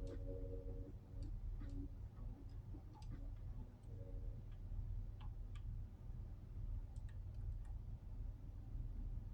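Wind rumbling, low and steady, with scattered irregular light clicks and ticks throughout. A faint hum comes and goes in the first second and again about four seconds in.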